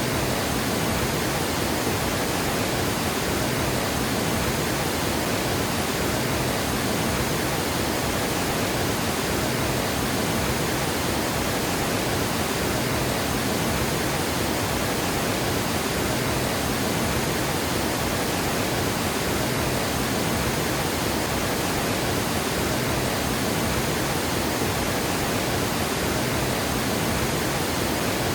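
Water pouring over a dam spillway: a steady, unbroken rushing roar with no pauses or separate splashes.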